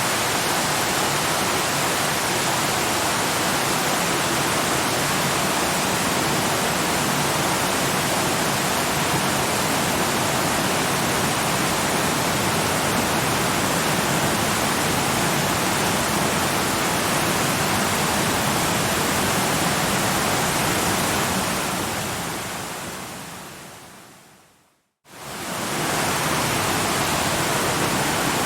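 Waterfall rushing in a steady, even stream of water noise. Near the end it fades away to a moment of silence and quickly swells back.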